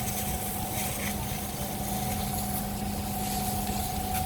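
An engine running steadily at idle, with a constant hum over a low rumble.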